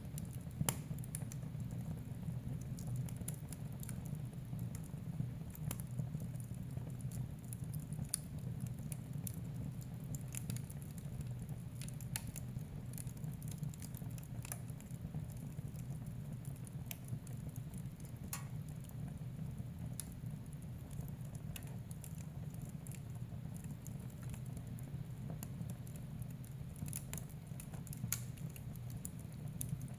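Wood fire burning in a fireplace, crackling with scattered sharp pops over a steady low rumble of the flames; one louder pop about a second in.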